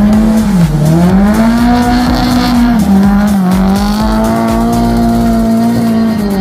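Drift car engine running hard at high revs, its pitch dipping briefly twice and then holding high and steady, with some tyre noise.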